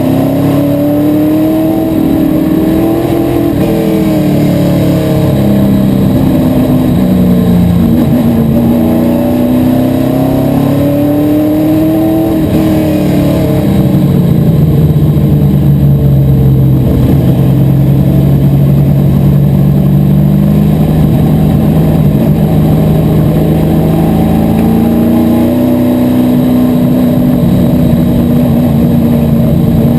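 Asphalt modified race car's V8 engine running at racing speed, its pitch repeatedly climbing on acceleration and falling off for the corners. Around the middle it settles to a lower, steadier note for several seconds, then climbs again near the end.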